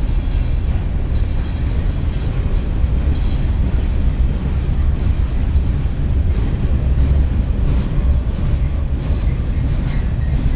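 Freight train cars rolling past on the track: a steady low rumble with faint rattling.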